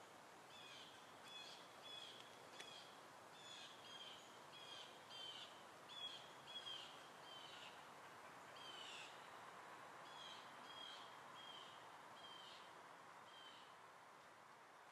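Faint bird calls: short high chirps repeated about twice a second, with a brief pause in the middle, over a soft background hiss.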